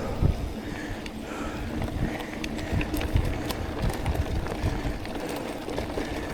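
Mountain bike riding over a dirt trail: a low rumble of tyres and bumps, with scattered sharp clicks and rattles from the bike.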